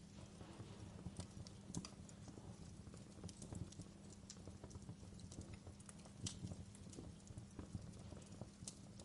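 Wood fire burning in a fireplace: a soft steady rumble of the flames with irregular sharp crackles and pops from the burning logs, a few louder pops among them.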